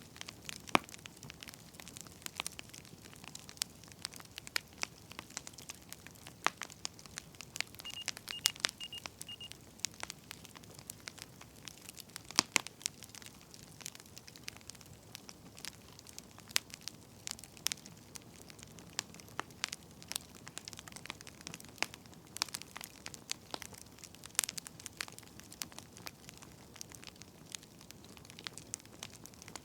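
Wood fire crackling, with frequent sharp pops and snaps over a soft hiss. About eight seconds in, four quick high beeps: the pomodoro timer going off.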